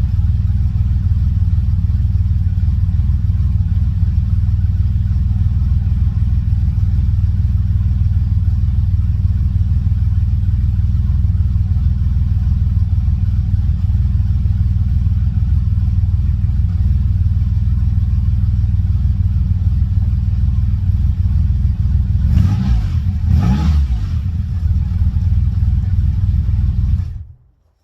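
TVR Tuscan Speed Six 4.0-litre straight-six engine running at a steady idle after a cold start, with a deep low rumble. It blips briefly a few seconds before the end, then the sound cuts off abruptly.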